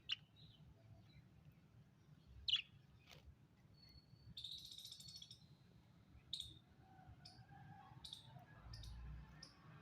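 Parrot giving faint, short, high chirps spaced a second or so apart, with a longer buzzy chatter about four and a half seconds in.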